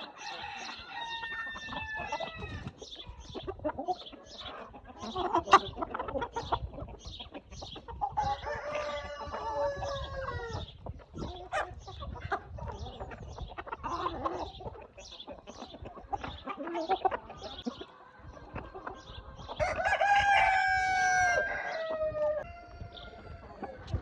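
Baladi (local breed) chickens: a rooster crows three times, once near the start, once about a third of the way in, and loudest near the end, over continual short clucking calls from the flock.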